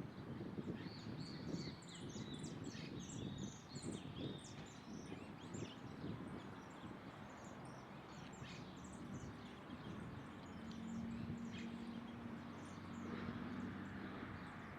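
Small birds chirping: many short, high chirps from several birds, thickest in the first half, over a low background rumble. A steady low hum joins about ten seconds in for about three seconds.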